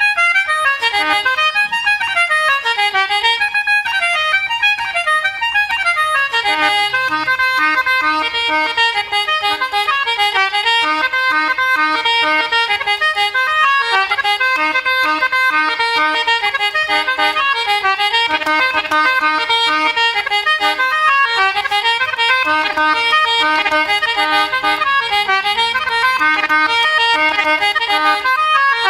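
Irish traditional reels played on free-reed squeezeboxes, a concertina and a button accordion, in quick, unbroken runs of notes.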